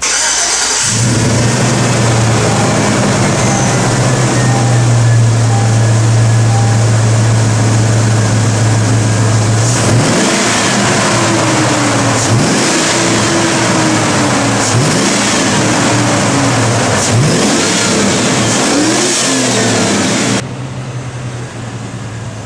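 GM pickup V8-or-V6 truck engine breathing through a newly fitted Airaid cold air intake, starting up and idling steadily. About ten seconds in it is revved several times, the pitch rising and falling with each blip, then it settles back to a quieter idle near the end.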